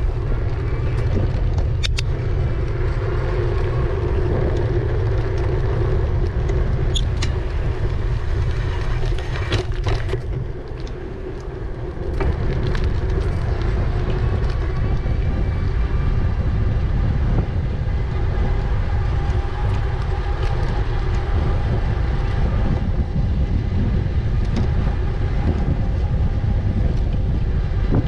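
Riding noise from an e-bike: heavy wind rumble on the microphone and tyre noise, over a steady low hum, with a few light clicks and a brief lull about ten seconds in.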